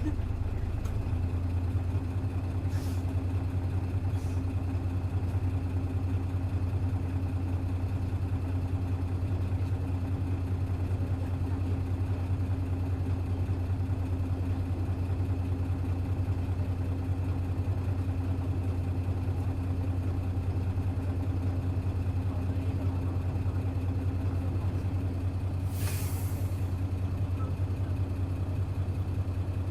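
Hino Blue Ribbon city bus's diesel engine idling steadily, heard from inside the bus, with a short hiss near the end.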